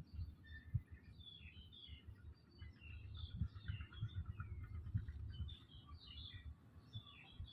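Small birds chirping and twittering over a steady low rumble with occasional soft thumps.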